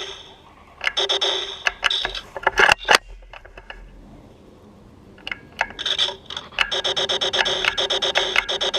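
Laser tag gun firing on automatic: rapid electronic shot sounds, about nine a second, stopping right at the start and starting again about six seconds in. In between come scattered single clicks and a short loud crackle near three seconds.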